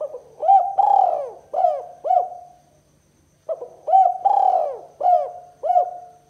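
Spotted dove (tekukur) cooing. Two phrases of about five quick, arching coos each, the second starting about a second after the first ends, and each phrase ending on a longer held note.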